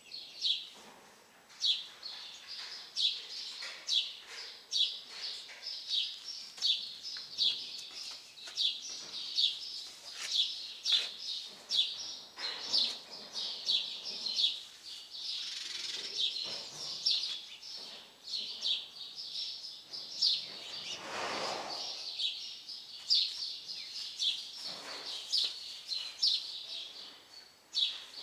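A bird chirping over and over, short high chirps about twice a second, with a brief breathy noise about three-quarters of the way through.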